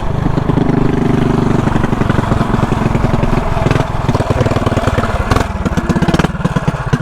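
A mini bike's engine running hard under throttle while riding, with a steady hum and a few sharp knocks in the second half.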